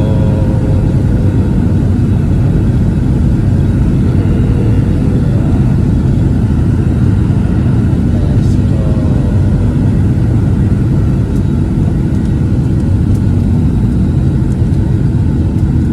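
Airliner cabin noise during takeoff: the jet engines and airflow make a loud, steady rumble with a faint whine above it.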